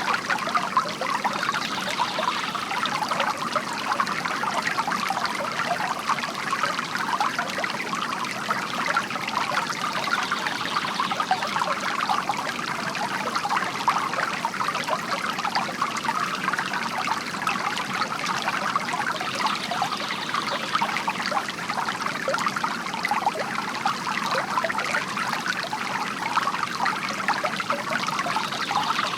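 Bamboo water fountain: water trickling and splashing steadily into a basin.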